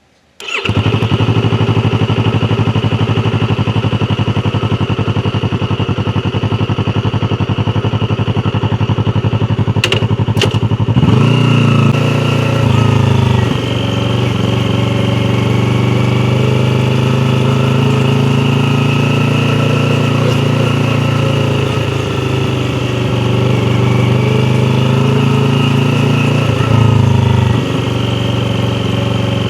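Yamaha YZF-R3's parallel-twin engine cuts in suddenly about half a second in and runs steadily at idle. Two short clicks come about ten seconds in, and the engine speed rises, holds for a couple of seconds and drops back twice, about a dozen seconds in and near the end.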